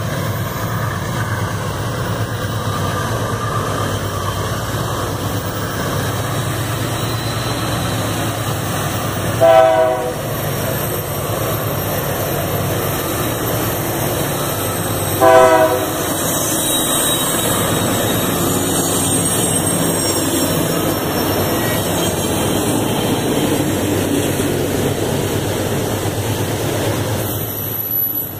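Diesel freight train approaching with a steady low engine drone, sounding two short horn blasts about six seconds apart, the first about ten seconds in. The rumble then swells as the wagons roll past, with a thin high-pitched wheel squeal over it.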